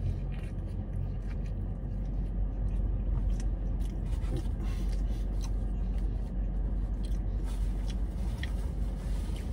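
A man biting into a burrito and chewing a large mouthful, with small wet mouth clicks and crackles, over a steady low hum in a car cabin.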